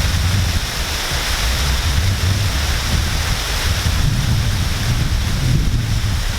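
Waterfall pouring steadily: a constant, full rush of falling water with a low, uneven rumble underneath.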